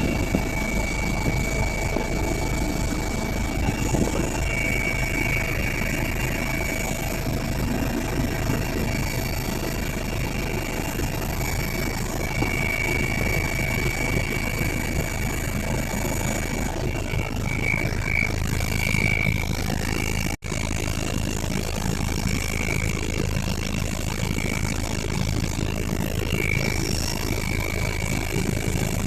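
Helicopter turbine engine and rotor running steadily, a constant low rumble with a high-pitched whine over it, broken by one momentary dropout about two-thirds of the way through.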